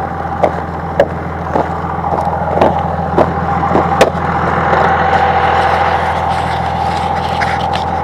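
Cummins diesel engine of a Ram 2500 plow truck idling steadily, with a steady whine above the engine note. Sharp clicks come about every half second through the first half, then give way to a steadier hiss.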